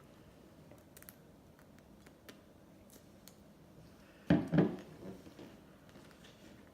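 Ice cream being eaten: faint scattered mouth clicks, then two quick loud strokes about four seconds in that die away over a second.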